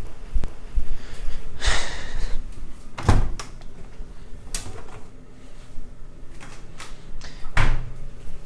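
A few separate knocks and thumps, about four spread over several seconds, like a door or appliance being handled.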